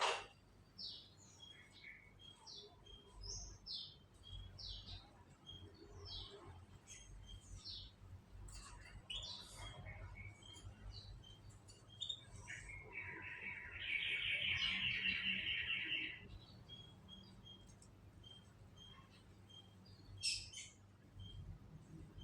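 Canaries chirping with short, high call notes, and near the middle a loud, fast trill of song lasting about three seconds.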